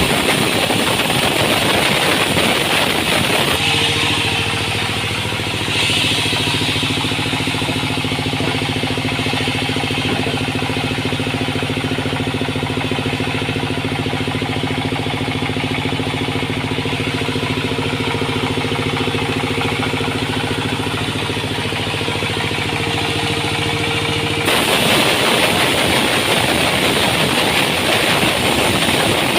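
Sawmill machinery running: a steady engine hum through the middle, with harsher, hissier machine noise for the first few seconds and the last five, switching abruptly about 4 s and 24 s in.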